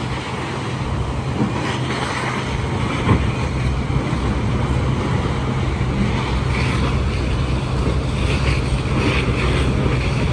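Steady low engine hum under a broad rushing noise, with wind on the microphone.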